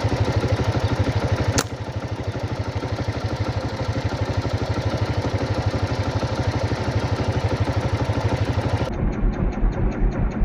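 A small engine running steadily with a fast, even pulse, and a single sharp click about a second and a half in. Near the end the sound changes abruptly, as at an edit.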